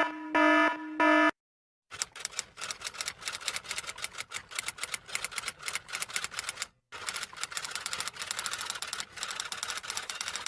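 Rapid typewriter keystrokes clattering for about eight seconds, with a brief pause midway. They are preceded by a few short electronic beeps at the very start.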